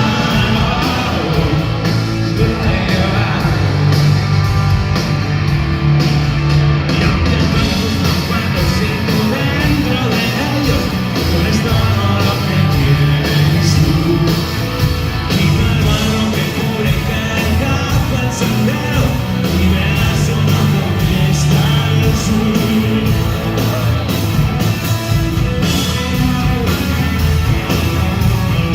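Rock band playing live, with singing over electric guitars, bass and drums, loud and unbroken.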